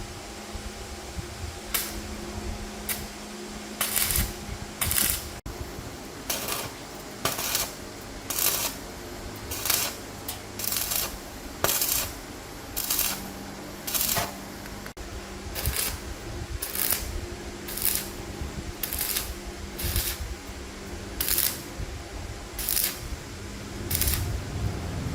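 Repeated short rasping strokes, roughly one a second and slightly uneven, over a steady low hum.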